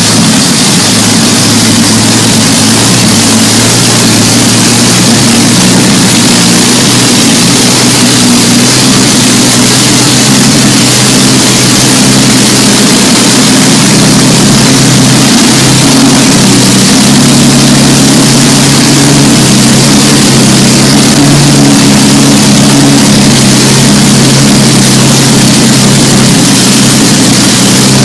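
Large engine running loud and steady at high power: a low, even drone with heavy noise over it and no pauses.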